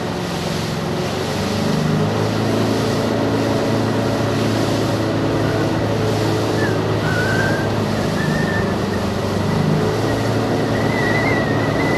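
Moggaro 600WJ aluminium jet boat running on the water: a steady engine drone over rushing water and wind, with a thin high whine coming in near the end.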